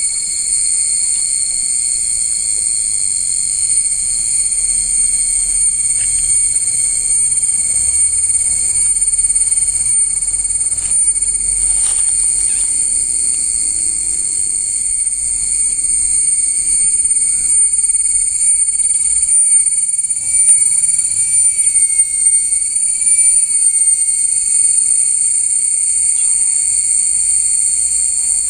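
Insects droning loudly and steadily, one unbroken high-pitched whine made of several layered tones.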